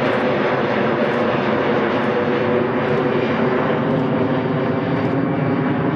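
Jet airliner's engines at takeoff power, a loud steady noise with several steady whining tones in it, cutting off abruptly at the very end.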